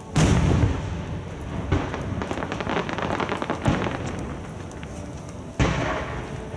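Fireworks shells bursting overhead, heard from about 500 m away: a loud boom just after the start with a long rolling rumble, then a second burst followed by about two seconds of dense crackling. Another boom comes near the end.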